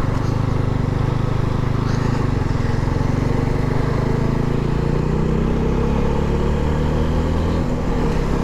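Motorcycle engine running steadily while riding along a road, its note shifting slightly past the middle.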